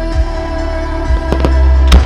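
Music of a musical fireworks show playing with held tones, while firework shells burst with sharp cracks about a second and a half in and again near the end.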